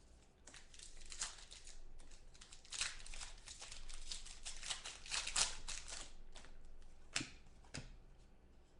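Irregular crinkling and rustling as trading-card packs are opened and the cards handled, with scattered clicks and two sharper clicks near the end.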